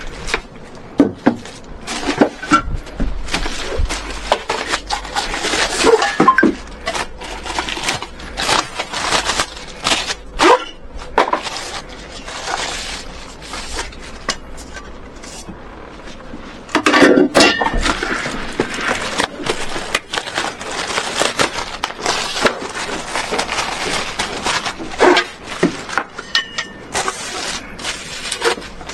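Furniture parts being handled during assembly: irregular knocking and clinking of wooden panels and hardware, with bursts of rustling throughout.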